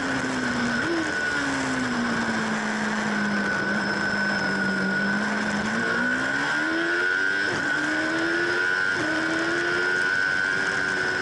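Racing motorcycle engine heard from an onboard camera. The engine note sinks slowly, then climbs again in steps after about six seconds, with a steady high whine and a rush of wind noise over it.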